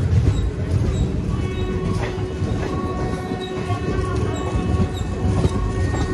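Kacheguda–Guntur Express passenger train running along the track: a steady rumble of wheels on rails, with occasional clicks over rail joints and faint high wheel squeal coming and going.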